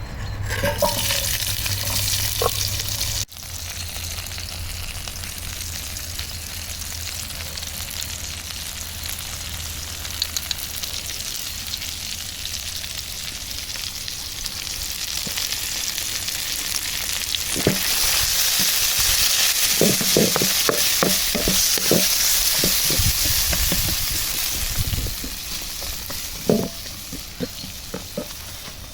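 Food sizzling as it fries in a pan over a campfire, a steady hiss that grows louder in the second half. A run of short knocks and scrapes from a stirring utensil comes in the second half.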